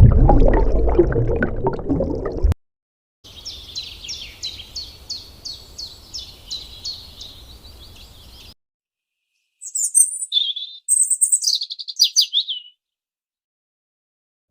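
A loud, low noisy sound for the first couple of seconds cuts off, then small birds chirp: a run of evenly repeated high chirps, about two a second, followed by a short burst of rapid high falling notes of bird song.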